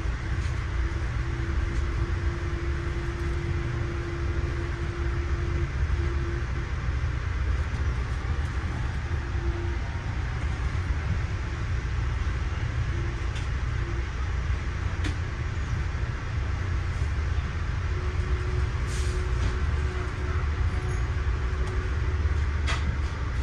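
Diesel train at the station, heard as a steady low engine rumble with a faint hum that comes and goes.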